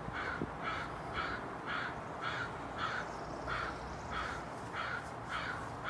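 A bird calling over and over, about two calls a second, each call short and evenly spaced.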